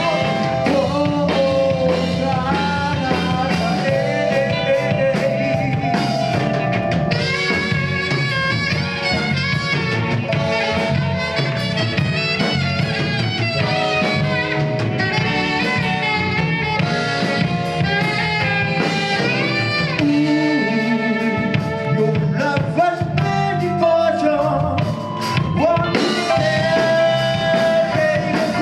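Live band music: a singer over a drum kit and backing instruments, playing at full band level.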